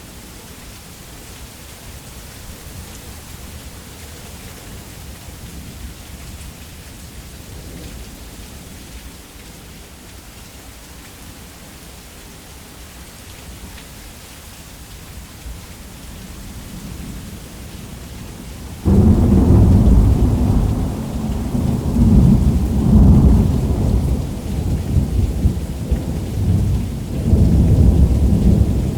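Steady rain falling on a roof, then about two-thirds of the way in a sudden loud clap of thunder that goes on as a long, deep rolling rumble, swelling and easing several times.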